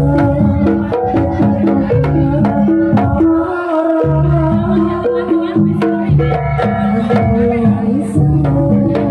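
Live traditional Javanese ensemble music: hand drums keep a busy beat under a melody of held, stepping notes.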